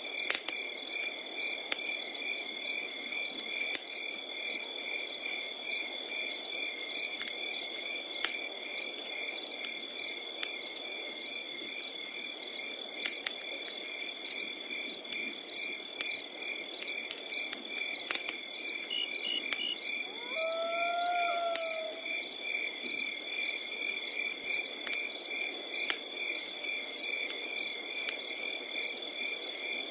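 Crickets chirping in a steady pulsing chorus over a crackling wood campfire, with irregular sharp pops and a low hiss from the burning wood. About two-thirds of the way through, a brief animal call sounds once.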